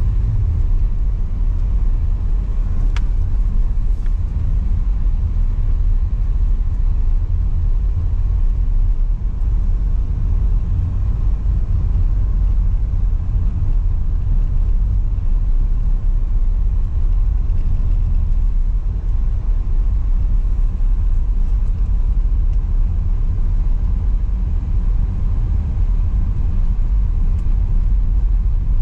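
Steady low rumble of a car driving along: engine and road noise.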